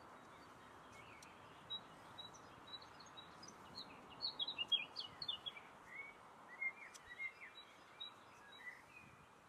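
A songbird singing a quick run of high chirps and trills, busiest in the middle, over a faint steady hiss of outdoor background noise.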